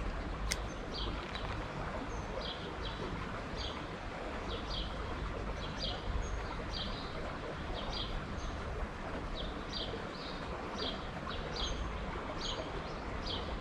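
A small songbird chirping over and over, short high chirps about twice a second, over a steady low rumble of outdoor background noise.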